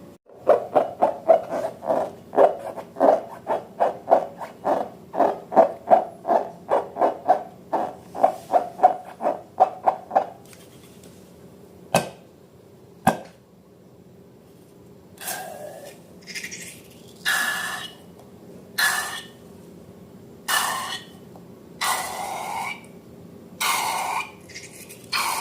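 Slime being worked by hand: a fast run of short wet squelches, about three a second, then two sharp clicks, then slower, longer squelches about a second long.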